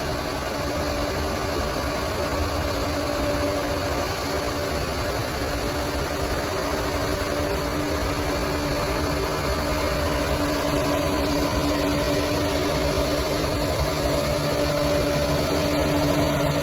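Bulldozer's diesel engine running steadily, with a steady hum and engine noise that grow slightly louder over the stretch.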